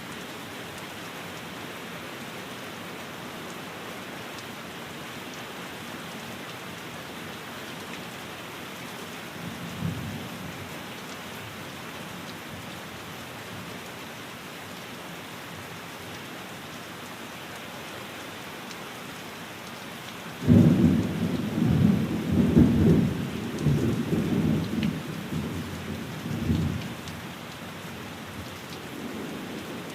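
Steady rain falling on a window, with thunder: a short low rumble about a third of the way in, then a loud thunder rumble about two-thirds in that rolls on for several seconds before fading back under the rain.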